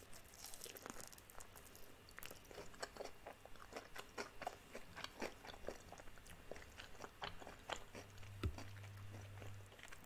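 Close-up crunching and chewing of crispy breaded fried chicken: a bite into the crust, then a steady run of short crackly crunches as it is chewed.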